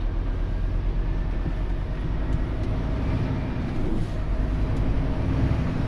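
Scania truck's diesel engine and road noise while driving, a steady low rumble with no changes.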